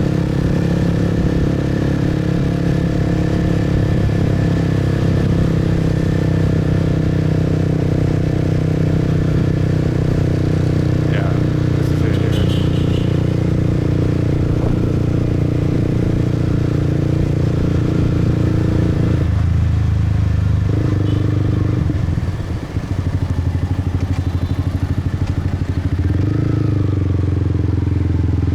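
Motorbike engine running at a steady cruise while riding. About two-thirds of the way through, the engine note changes and becomes less steady, with a brief dip in level.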